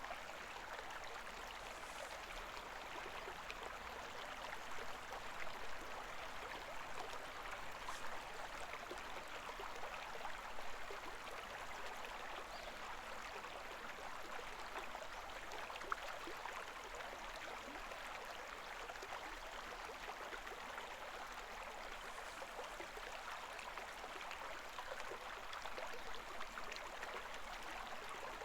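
A shallow river babbling steadily, its rippling water flowing with small swells in level.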